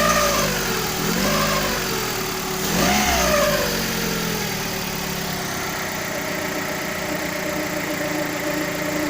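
Car engine blipped three times, a whistle rising and falling in pitch with each rev, then settling at idle into a steady whistling tone.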